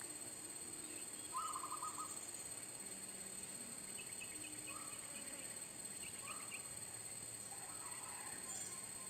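Zebra doves calling: a short, rapidly trilled coo about a second and a half in, then a few shorter coos. Brief higher chirps from small birds and a steady high insect drone run underneath.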